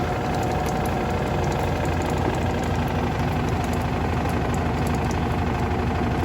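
Electrolux Turbo Limpeza Premium 6 kg top-loading washing machine running mid-cycle: a loud, steady motor hum with a fast, even rattle.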